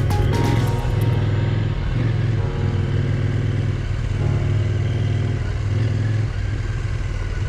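KTM 790 Adventure R's parallel-twin engine running at a steady cruise while riding, with wind and road noise.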